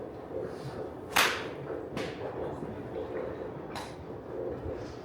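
Golf club heads striking balls: three sharp cracks, the first and loudest just over a second in, the next two under a second and about two seconds apart.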